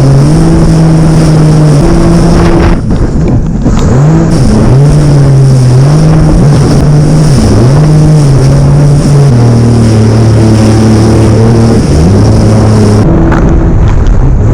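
Jet ski engine running at high speed, its pitch rising and falling several times as the throttle is worked, with a dip about three seconds in and a steadier, lower stretch in the last third before it climbs again near the end. Wind and water rush sound under the engine.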